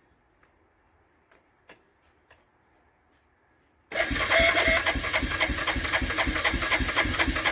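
A few faint clicks, then about four seconds in the starter cranks the 2004 Yamaha Kodiak 450 ATV's single-cylinder engine in a rapid, even rhythm without it yet catching. This is a cold start on full choke after the quad has sat for weeks in sub-zero temperatures.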